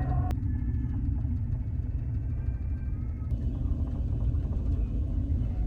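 Steady low rumble, with a few faint steady higher tones; the higher sounds drop out abruptly just after the start.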